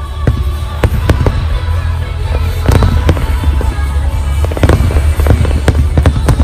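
A dense barrage of aerial fireworks shells bursting, many bangs in quick irregular succession over a continuous deep rumble, with music playing underneath.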